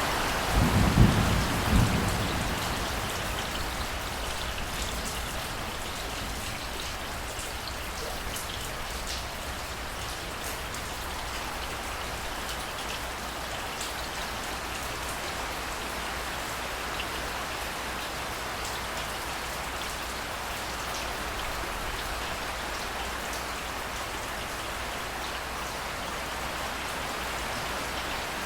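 Steady rain falling, with fine drop patter throughout. A short low rumble comes about a second in and is the loudest sound.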